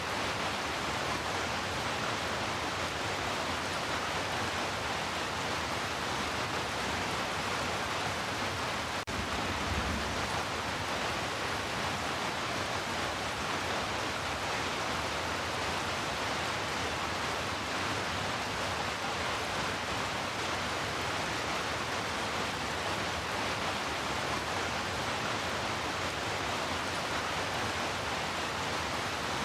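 Heavy rain falling as a steady, even hiss, with a brief dip about nine seconds in.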